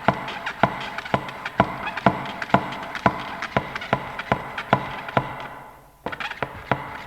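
A recorded sound effect of sharp, evenly paced knocks, about two a second with fainter taps between, fading out about five seconds in; a new run of similar knocks starts about six seconds in.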